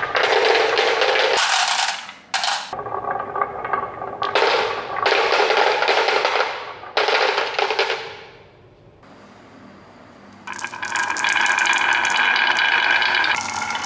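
Rattling clatter of toys rolling and knocking along a track, in several bursts of one to two seconds with a quieter stretch about two-thirds of the way through.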